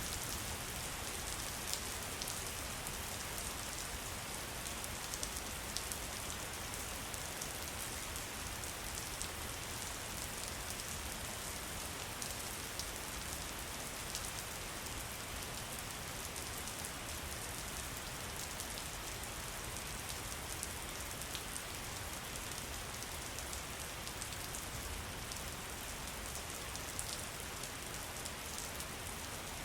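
Steady rain falling, an even hiss with scattered sharp drop ticks through it.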